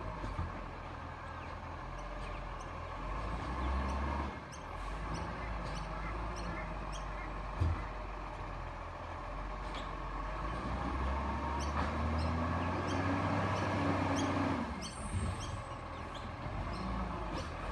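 Garbage truck running, its engine note rising and falling, with small squeaks and clicks and a sharp knock about eight seconds in.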